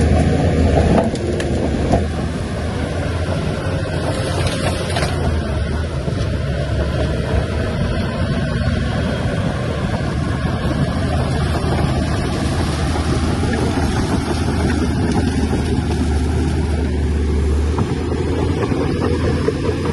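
Heavy diesel engine of a Shantui bulldozer running steadily with a deep low drone, with a few faint knocks in the first few seconds.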